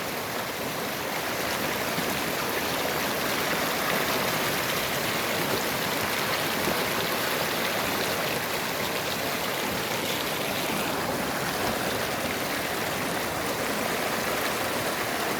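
Water of a small river flowing, a steady rushing noise with no pauses.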